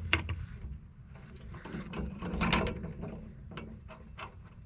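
Scattered clicks, knocks and scraping of hand tools and metal parts being worked loose while an air-conditioning unit is taken apart, the loudest knock about halfway through, over a low steady hum.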